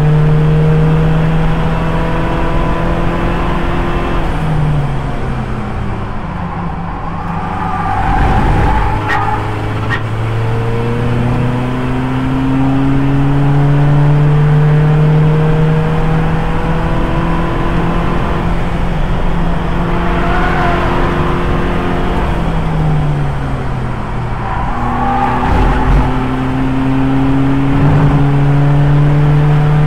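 Race car's 2.0 TDI four-cylinder turbodiesel engine (a CUAA unit) pulling hard on track. Its pitch climbs slowly through each gear and drops sharply at upshifts, about twice, with brief lifts off the throttle in between.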